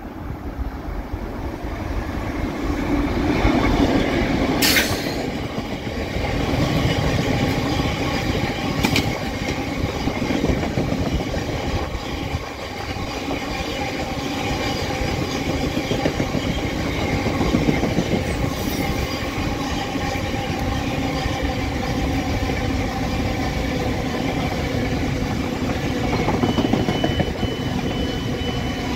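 GB Railfreight Class 60 diesel locomotive 60095 passing close at speed, loudest about three to five seconds in. A long train of bogie hopper wagons follows, rumbling and clattering steadily over the track, with a thin high wheel squeal near the end.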